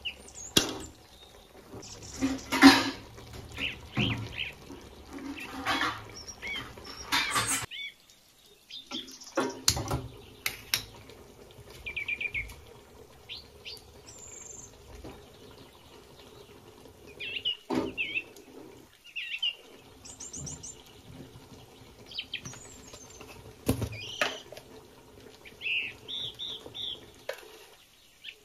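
Birds chirping in short repeated calls, with knocks and clatter in the first few seconds and a few single sharp knocks later on.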